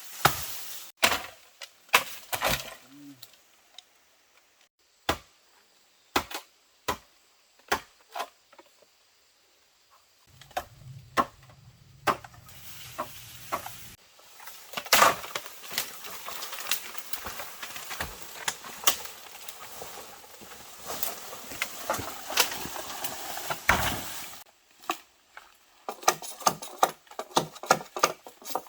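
A series of sharp knocks, like hand work on wood: single knocks every half second to second at first, then dense clattering over a steady noise from about halfway through, and a run of quick knocks near the end.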